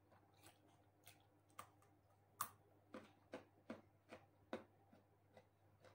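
Crunching as raw carrot sticks are chewed: short, irregular crunches, about a dozen in all, the loudest about two and a half seconds in.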